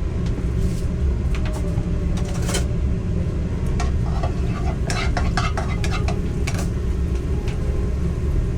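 Food frying in a pan while a metal utensil stirs and scrapes it, with scattered clinks of cookware, over a steady low rumble.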